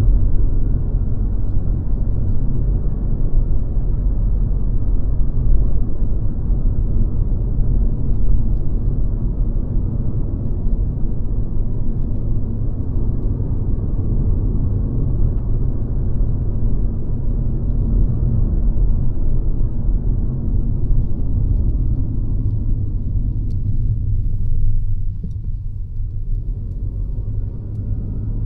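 Mercedes-Benz C-Class (W206) under way: a steady low rumble of engine and road noise, which gets a little quieter and duller about three-quarters of the way through.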